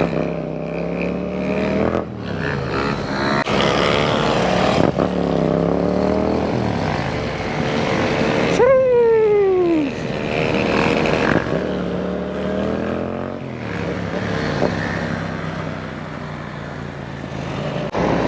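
Motorcycle engines running and revving, their pitch rising and falling. About nine seconds in, one bike passes close by, and its pitch drops sharply as it goes.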